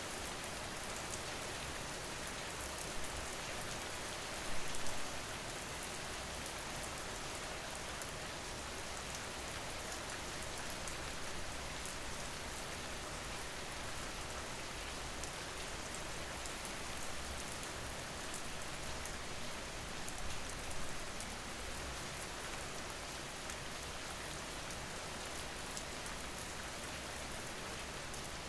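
Steady rain falling, played as a background rain ambience. It briefly grows louder twice, about five seconds in and again about twenty-one seconds in.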